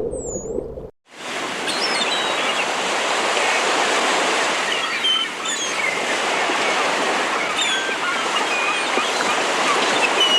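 Steady rushing water, starting after a brief cut about a second in, with faint, scattered bird chirps above it.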